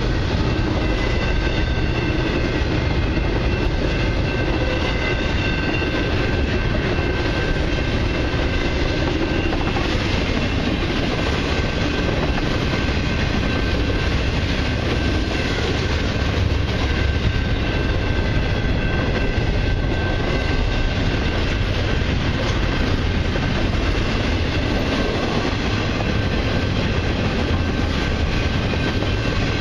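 Freight cars of a long intermodal train rolling steadily past: a continuous rumble of wheels on rail with clickety-clack at the rail joints and a faint, thin wheel squeal that fades out during the first half.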